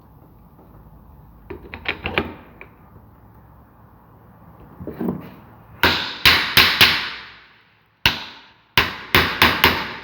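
Hammer blows on metal fan parts. A few light taps come first, then quick runs of four or five hard strikes, each ringing briefly.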